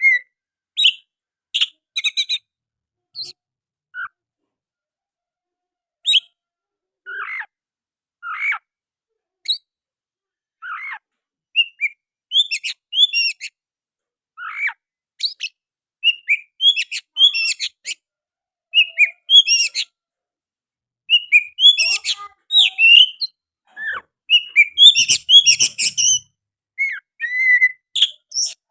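Oriental magpie-robin singing, its song filled with mimicked sooty-headed bulbul notes: short, varied whistles and chirps broken by pauses, getting faster and busier in the last few seconds.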